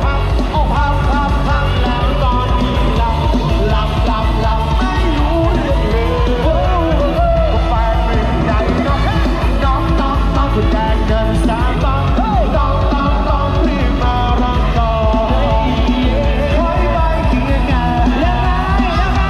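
Loud music with a singer and a heavy, steady beat, played through a mini parade truck's outdoor loudspeaker set.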